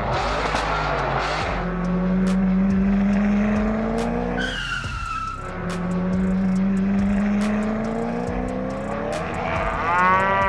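Racing-car engine sound effect revving in two long, slowly rising runs, with a short tire screech about halfway between them and a fast rising whine near the end. Sharp clicks scattered throughout.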